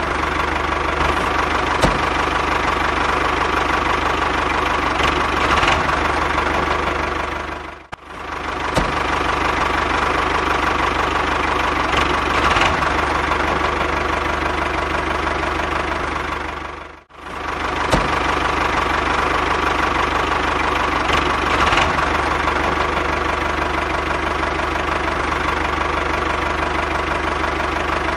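A DIY mini tractor's small engine running steadily with a knocking chug. The sound dips away briefly twice, about eight and about seventeen seconds in.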